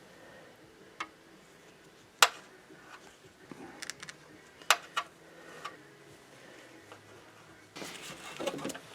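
Sharp clicks and knocks of tools and metal parts being handled while working on a drained PTU. The loudest click comes about two seconds in, with a run of lighter ticks after it and a short scraping rustle near the end.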